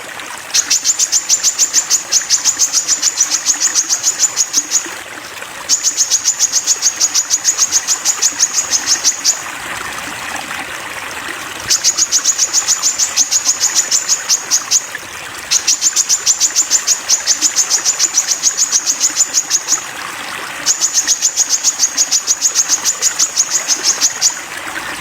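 A sogon bird singing long runs of rapid, high-pitched repeated notes, about six a second, each run several seconds long with short breaks between, over a steady trickle of running water.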